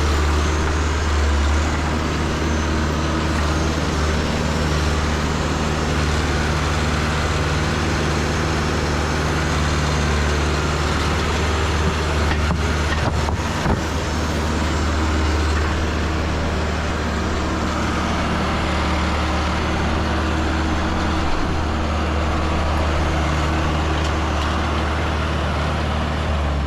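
Tractor engine running steadily under load while driving in second gear, with a few knocks about halfway through.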